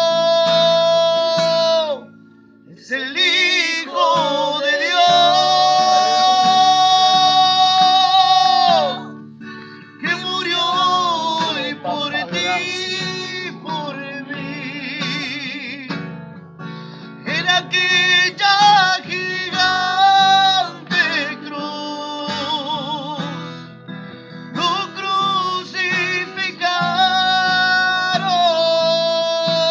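Singing with acoustic guitar in a Christian song: long held notes with vibrato, broken by short pauses, over steady guitar accompaniment.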